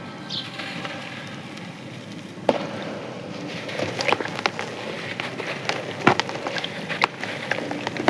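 Soft, crispy sand-cement chunks being crushed and crumbling: a low hiss at first, then a sharp crack about two and a half seconds in, followed by a run of irregular crackles and small snaps.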